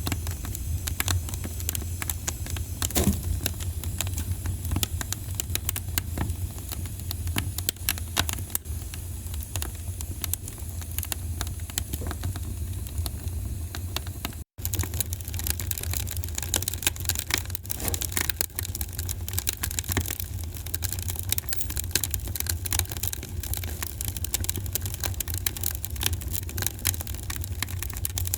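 Wood fire crackling in a fireplace, dense irregular pops and snaps over a steady low rumble. The sound drops out for an instant about halfway through.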